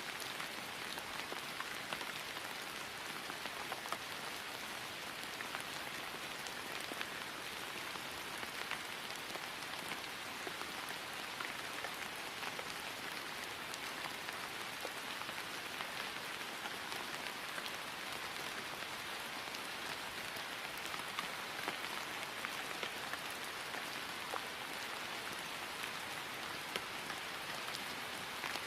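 Steady rain falling on grass, an even hiss with scattered individual drop ticks.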